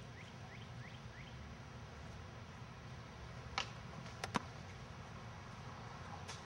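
A bird chirping in a quick run of short rising notes in the first second, over a low steady background hum. Later, a few sharp clicks or knocks come, the loudest a close pair after about four seconds.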